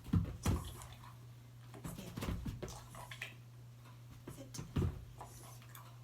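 A dog hiccuping: a few short, sudden hics at uneven spacing over a steady low hum.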